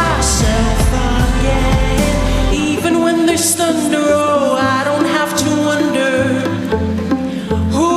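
Pop song performed live, a female singer's voice over a backing track. About two and a half seconds in, the steady low bass drops away into a pulsing bass line.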